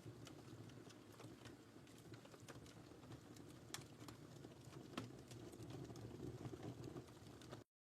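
Wood fire crackling faintly, a low steady rumble of flames with scattered small snaps and two louder pops in the middle. The sound drops out to dead silence for a moment near the end.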